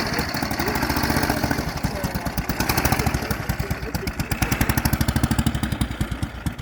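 Car engine idling with an even pulsing exhaust beat.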